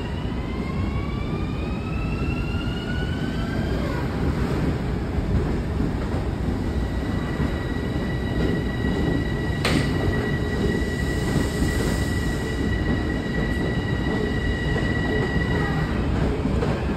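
Long Island Rail Road electric multiple-unit train pulling away over continuous wheel-on-rail rumble. For the first few seconds a whine rises in pitch as it accelerates, then a steady high tone holds until near the end, with one sharp click about ten seconds in.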